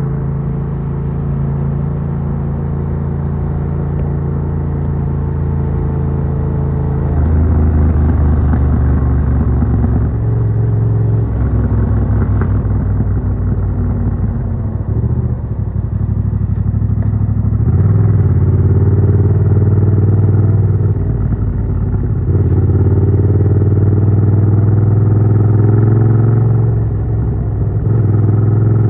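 Yamaha MT-07's 689cc CP2 parallel-twin engine running through an Arrow Works full exhaust with its dB killer fitted, pulling hard through the gears. The engine note steps up in pitch and loudness several times and drops briefly near the middle and near the end as the throttle is closed.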